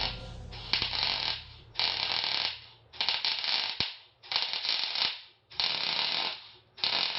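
Six short, noisy mechanical strokes in an even rhythm, about one a second, each starting sharply and fading away.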